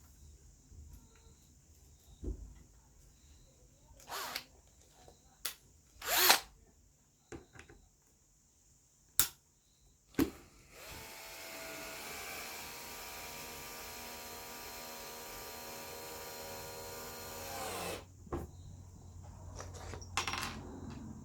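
Several knocks and clicks of handling, then a power drill runs steadily for about seven seconds, its pitch dropping as it winds down, followed by a few more clicks.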